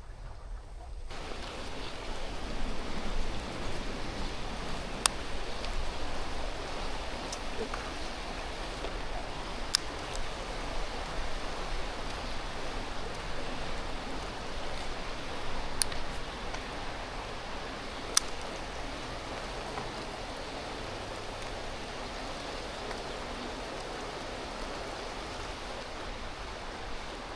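Creek water rushing steadily, an even hiss that comes in abruptly about a second in, with a few faint sharp clicks scattered through it.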